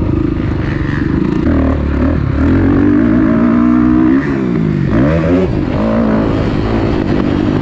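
Kawasaki KX450F single-cylinder four-stroke dirt bike engine under riding load, revving up and down. The pitch climbs, the throttle is chopped about four seconds in, and the engine revs up again.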